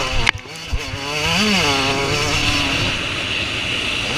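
Motocross bike engines revving on the track, pitch rising and falling as a bike accelerates and backs off, with more bikes running behind. A sharp knock about a third of a second in, then a brief dip in level.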